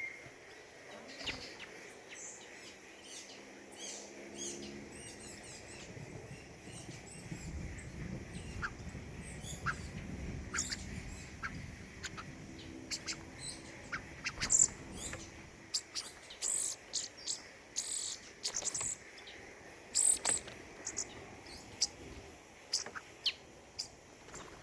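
Small forest birds chirping and calling, with short high chirps that come thickest in the second half, over a faint low drone in the middle.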